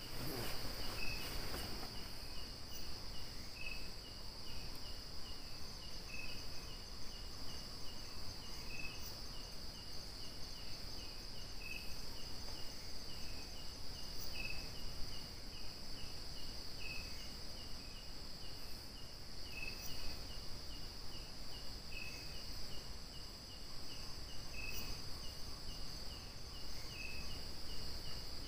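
Insect chorus: a steady high-pitched drone of crickets, with a rapid train of chirps over it and a separate lower chirp repeating about every two and a half seconds.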